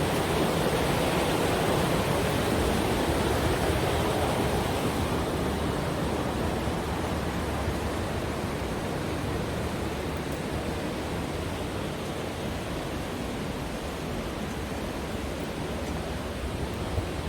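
Rushing river water, a steady even rush that slowly grows a little quieter.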